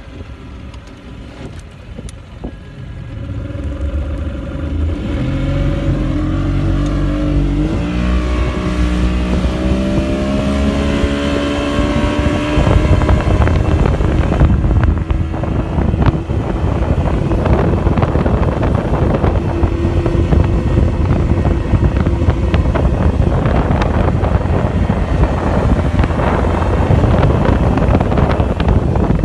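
1980s 50 hp Mercury two-stroke outboard motor throttling up from idle, its pitch climbing for about ten seconds, then running steadily at full throttle with wind and water noise over it.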